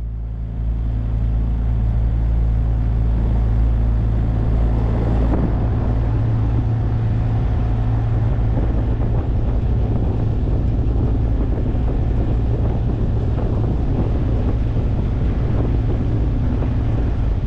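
Motorboat engine running steadily under way, with water rushing along the hull and wind on the microphone.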